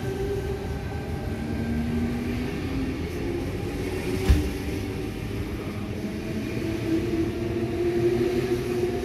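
A Tangara double-deck electric train running past close along a platform, with a steady rumble and rush and a few held humming tones. A single sharp knock comes about four seconds in.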